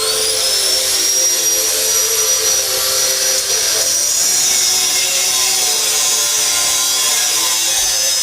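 A machine's electric motor spinning up, its high whine rising in pitch over about the first second, then running steadily at speed with a loud hiss.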